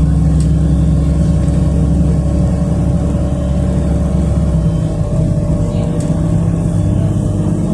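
City bus driving, heard from inside the passenger cabin: a steady low engine drone with road noise. The low note changes abruptly about two-thirds of the way in.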